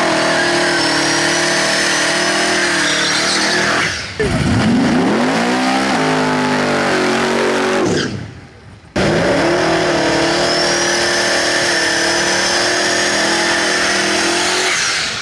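Drag cars doing burnouts: engines held at high revs with the tires spinning and squealing, steady for seconds at a time with a high whine over the engine note. Between the held stretches the revs fall and climb, and the sound drops out briefly about eight seconds in.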